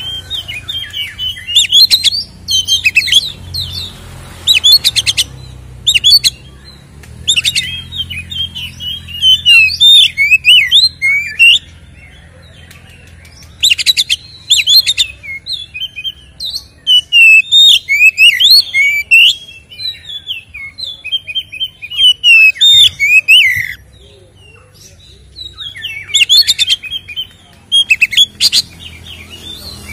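Oriental magpie-robin singing loudly: a varied, fast song of whistled and chirped phrases mixed with harsh rattling bursts, delivered in bouts with short pauses between them.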